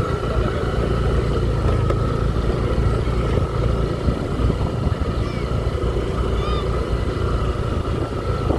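Steady engine and road rumble of vehicles in street traffic, with a constant whining tone above it. A few short chirps come about five and six and a half seconds in.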